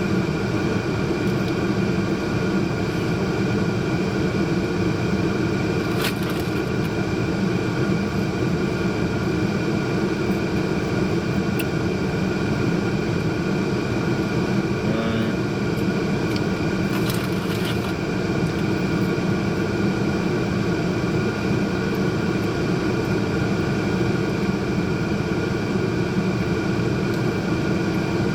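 Steady hum inside a car cabin with the engine running, an even drone with a few faint clicks.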